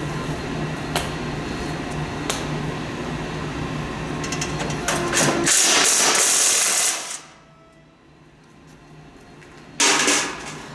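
A socket wrench working a bolt on a snowblower, with scattered metal clicks, then about a second and a half of rapid ratcheting. After a quieter pause, a second short burst comes near the end, over a steady low hum.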